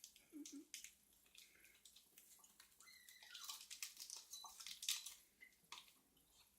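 Faint crinkling and rustling of a chocolate bar wrapper being opened and handled, with scattered soft clicks.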